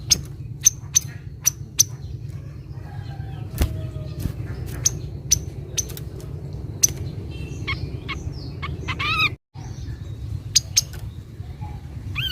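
Kaso-kaso bird calling: sharp, short high notes repeated at irregular intervals, with a quick rippling run of notes shortly before the sound cuts out for an instant about three quarters through, over a steady low rumble.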